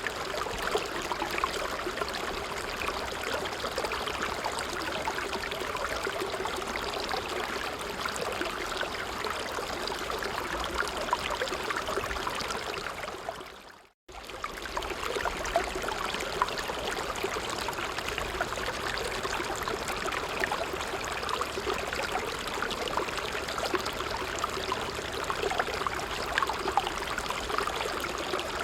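A creek flowing steadily, its water trickling and gurgling without a break. About halfway through it fades out to silence and comes straight back in.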